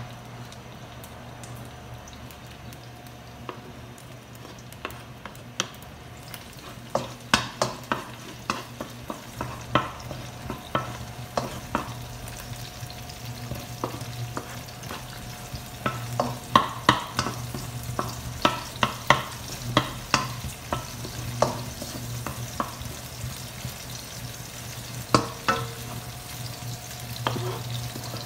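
Garlic and onion sizzling in a little oil in a wok, with a steady low hum beneath. From about seven seconds in come repeated sharp taps and scrapes of a wooden spoon as it pushes chopped chili off a plastic cutting board into the pan.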